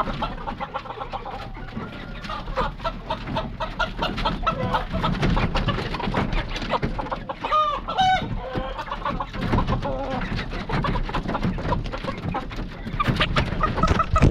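Hens clucking and squawking as they are caught and moved, with a louder squawk about halfway through and scattered knocks and rustling throughout.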